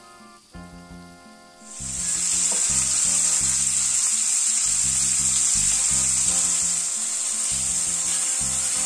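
Flour-dredged chicken breasts frying in hot olive oil in a pan: a loud, steady sizzle that comes in suddenly about two seconds in.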